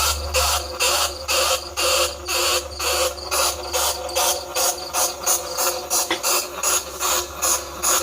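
Bandicoot rat squeaks in quick repeated bursts, about three a second, over a steady low hum. It is a recorded call played to lure rats.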